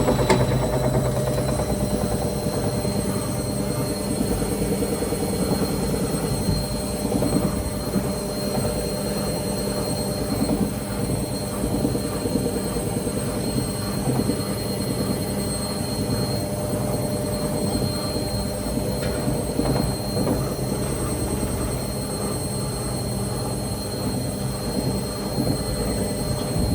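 Indesit Innex washing machine drum spinning in the spin cycle: a loud, steady rumble with a steady high whine over it, after a sharp click at the very start.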